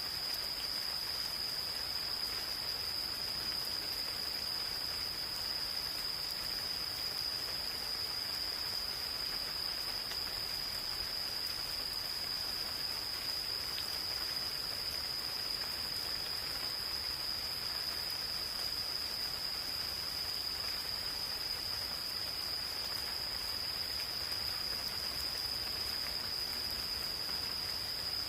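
Insects calling in one continuous, steady high-pitched trill over the even hiss of gentle rain falling in a forest.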